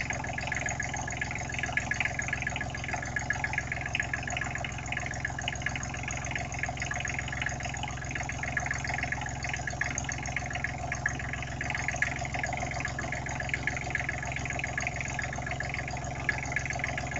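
Small rebuilt diesel engine running steadily at idle, firing in a fast, even rhythm.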